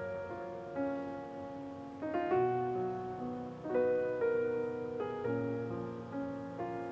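Soft, slow background piano music, single sustained notes and chords changing about every second.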